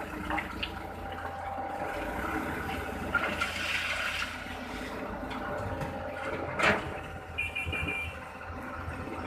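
Heavy truck engine running steadily, with a rushing noise swelling about three to four seconds in. A sharp knock comes near seven seconds, then a short run of quick high beeps.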